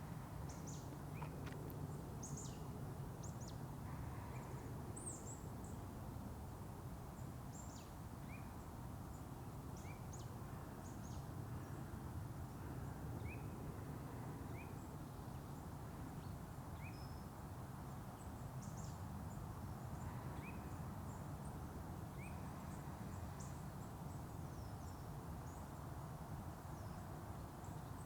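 Forest ambience: a steady low background rumble with birds chirping, short high calls scattered throughout and a brief rising note repeated every second or two.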